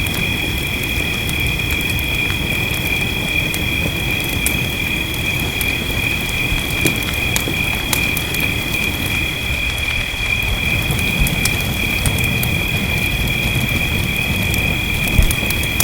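Steady rain hiss with a wood fire crackling in scattered small pops. A constant high-pitched two-tone drone runs under it throughout.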